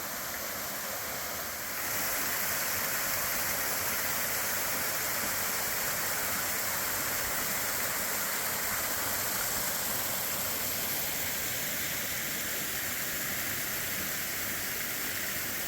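A waterfall running under its ice, heard as a steady rushing hiss of falling water that grows a little louder about two seconds in.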